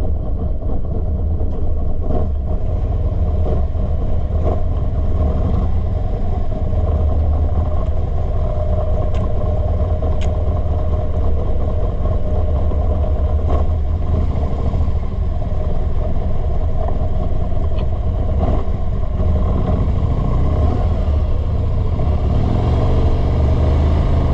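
Motorcycle under way on the road: a steady engine drone mixed with heavy low rumbling road and wind noise.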